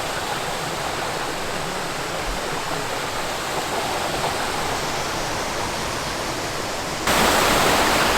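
Steady rushing of falling water from Pistyll Rhaeadr, a 73-metre waterfall. It gets suddenly louder and brighter about seven seconds in.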